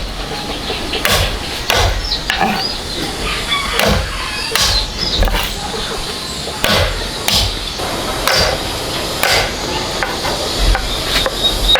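A series of sharp knocks, irregularly spaced about once a second, like chopping or hammering.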